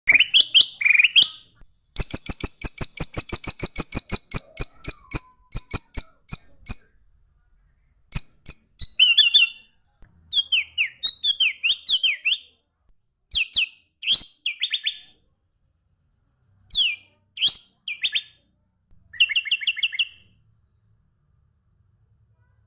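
A songbird singing: a fast run of sharp, ticking high notes, then varied whistled phrases of slurred notes separated by short pauses.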